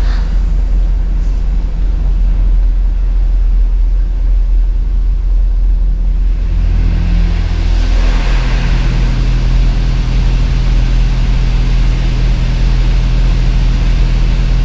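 Automatic car wash heard from inside the car's cabin: a steady low rumble, with the hiss of the wash machinery swelling about seven seconds in and carrying on.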